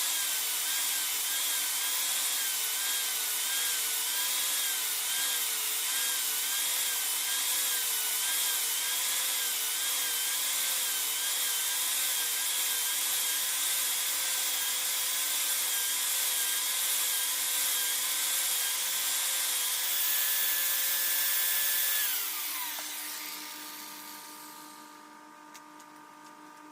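Electric power tool running with a steady hum and a hiss of material being worked, its pitch wavering as the load changes. About 22 seconds in it is switched off and winds down, the pitch falling as it slows.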